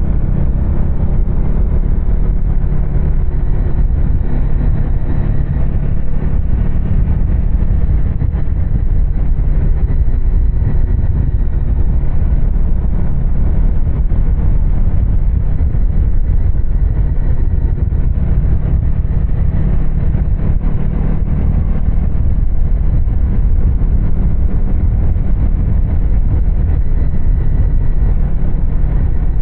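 2024 Husqvarna Svartpilen 250's single-cylinder engine running steadily, a loud, even, deep rumble with no revving or pauses.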